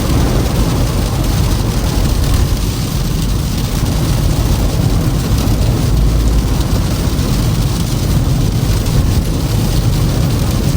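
Car driving on a snowy road: a steady low rumble of tyres and engine with an even hiss over it.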